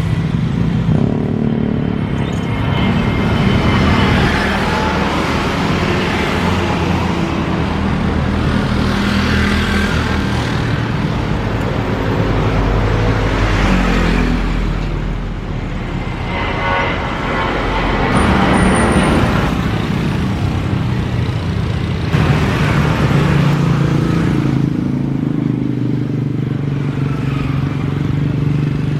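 Road traffic: cars and motorcycles passing one after another, several engine pitches falling as they go by.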